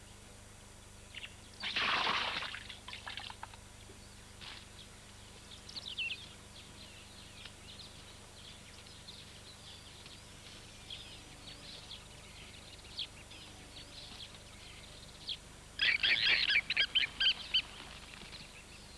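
Birds calling: a loud burst of high, harsh calls about two seconds in, scattered short chirps after it, and a quick run of sharp repeated calls near the end, over faint outdoor background.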